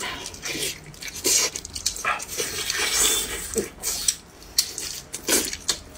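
Close-miked wet chewing and lip-smacking of someone eating saucy beef rib meat, with irregular smacks and slurpy mouth noises.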